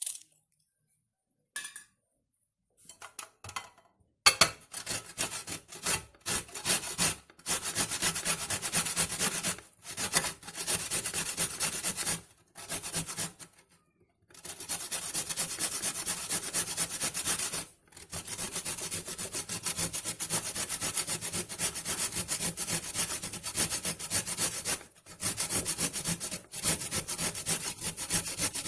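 Raw red beetroot being grated on a hand grater: long runs of quick rasping strokes with short pauses between them, starting after a few quiet seconds and a sharp click.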